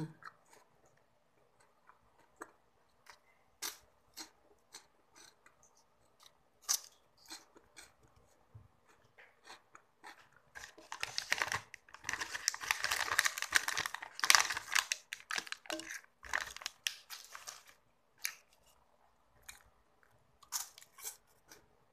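Crunchy chewing of a chocolate wafer close to the microphone, heard as scattered sharp crackles. In the middle comes a denser, louder stretch of crackling lasting about six seconds. Near the end there are a few crisp crunches as a pink wafer is bitten into.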